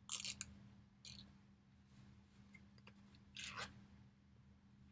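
Three short rustling, scraping handling sounds as a small vintage evening bag and the little piece inside it are handled: one at the start, one about a second in, and a longer one past the middle. A faint steady hum runs under them.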